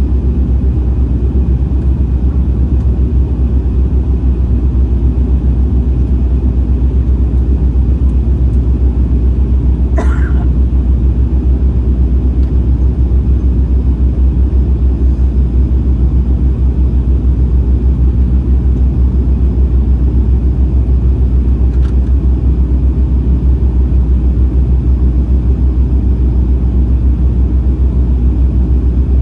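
Steady low rumble of an airliner's cabin on approach: engine and airflow noise heard from a passenger seat by the window. About ten seconds in, a brief faint high sound cuts across it.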